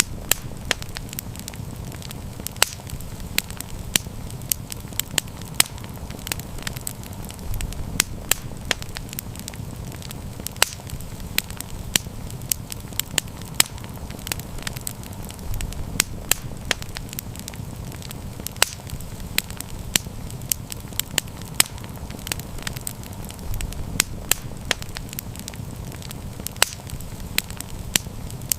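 Wood campfire crackling: a steady low burning rumble with frequent sharp pops and snaps at irregular times.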